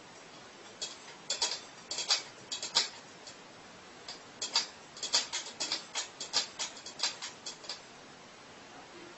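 Irregular sharp clicks and taps, some single and some in quick clusters of several a second, over a faint hiss, stopping about two seconds before the end.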